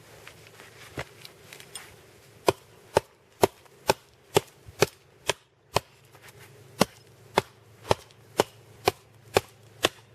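Axe chopping notches into a pine log: a run of sharp chops about two a second, starting a couple of seconds in, with a brief pause midway.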